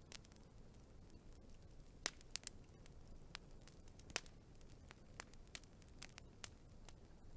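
Wood fire crackling: irregular sharp pops and snaps over a faint low hiss, the loudest about two seconds and four seconds in.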